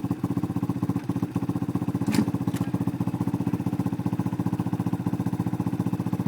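Dirt bike engine idling steadily with an even, rapid pulse. Two short sharp clicks sound about two seconds in.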